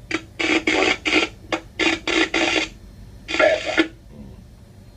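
A voice over a two-way radio, garbled and untranscribed, in short choppy bursts of speech that stop about four seconds in.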